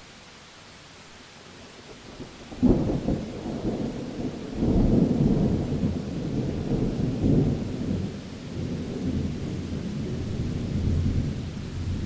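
Thunderclap over steady rain: a sharp crack about two and a half seconds in, then a long, low, rolling rumble that swells several times and slowly fades.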